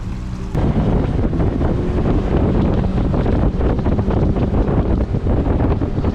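Wind buffeting the microphone of a camera on a motorboat under way, a loud rushing and fluttering noise that cuts in suddenly about half a second in.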